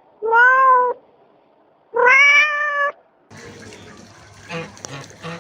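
Domestic cat meowing twice: two long, loud meows about a second apart, each rising slightly in pitch. After them, a quieter hissing background with scattered clicks and a steady low hum.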